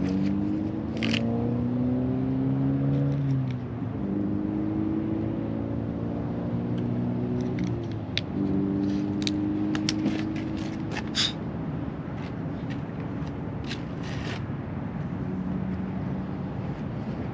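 A motor vehicle engine accelerating through its gears, its pitch rising slowly and then dropping back at each shift, three or four times over, easing off near the end. Scattered sharp clicks and scrapes of handled gear sound over it in the middle.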